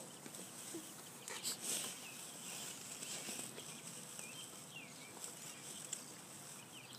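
Faint bird chirps: short, scattered calls that bend up and down in pitch, with a couple of soft clicks between them.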